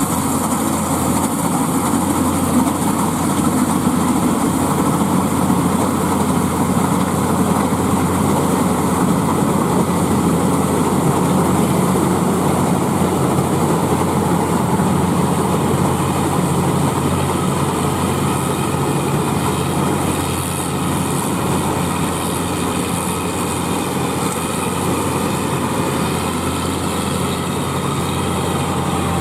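Claas Crop Tiger 30 combine harvester running steadily while harvesting paddy: a continuous engine and machinery drone.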